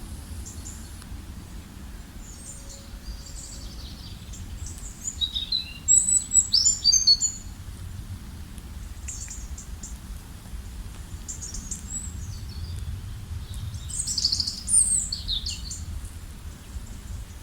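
Wild birds chirping and singing in short, scattered phrases, with a louder flurry of calls about six seconds in and another near the end, over a steady low rumble.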